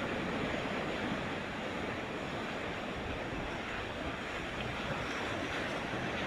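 Ocean surf breaking and washing steadily onto the beach, a continuous rushing noise.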